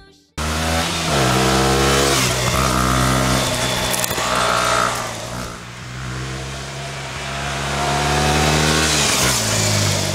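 KTM 125 Duke's 124.7 cc single-cylinder engine running under way. Its pitch falls about a second in, holds, then climbs steadily as it revs up and drops sharply near the end at a gear change.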